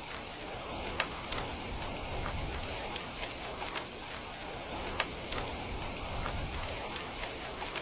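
Steady rain falling, with scattered sharp ticks of single drops or crackles, the two strongest about a second in and about five seconds in.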